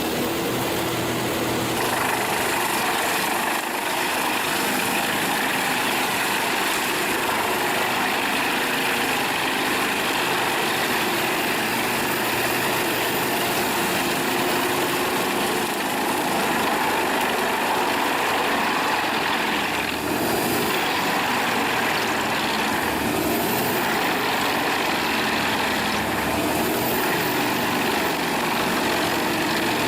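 Wood chipper's engine running steadily under a dense, even machine noise, changing tone a few times.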